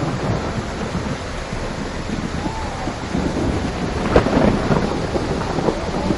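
Steady rain with thunder rumbling underneath, the loudest moment a sharp crack of thunder about four seconds in.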